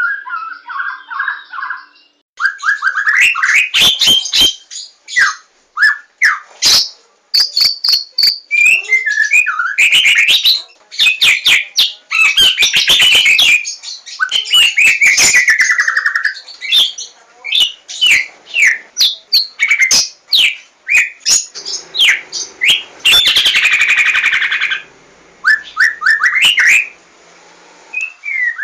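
White-rumped shama singing a loud, varied song of quick whistled phrases, sharp chips and rattling, buzzy trills, broken by short pauses.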